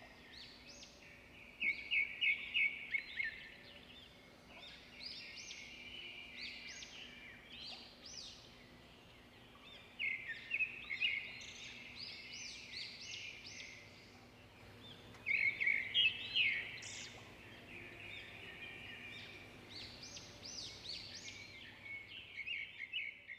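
Birds chirping: bursts of rapid, high chirps and short whistles that come back every four to five seconds, over a faint steady hum.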